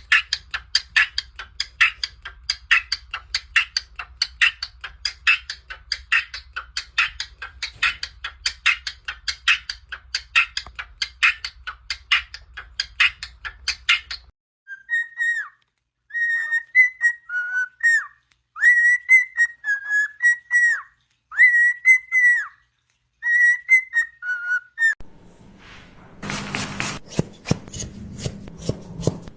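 Parrot whistling a short tune: a run of clear whistled notes, most at one pitch and a few dipping lower, coming about halfway through. It follows a long run of quick regular ticks, about three a second, over a low hum, and near the end a rough scraping noise takes over.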